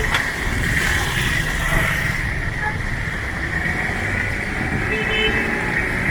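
Street ambience with vehicle traffic running: a continuous low rumble with a steady high hum over it.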